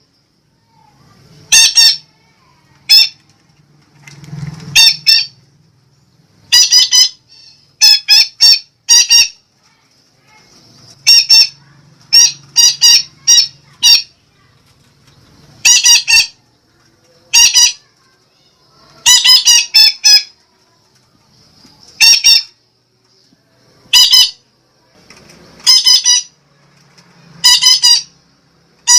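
Sumatran betet parakeet giving loud, short squawking calls, singly and in quick runs of two to four, a call or run every second or two.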